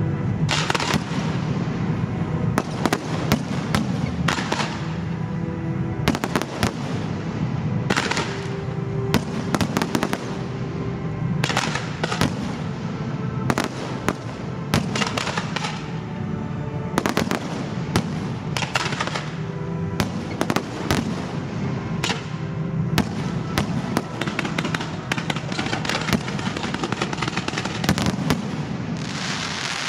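Aerial fireworks of a pyromusical display going off in rapid, irregular volleys of bangs and crackles, with music playing along under them.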